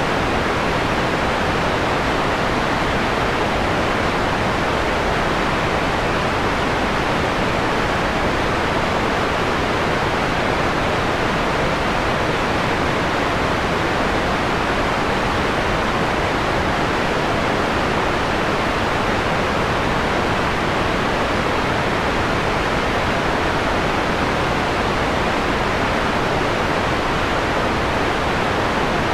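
Steady synthetic white noise, an even hiss with no change, its treble rolled off so that most of the sound sits below about 4 kHz, giving a mellowed tone.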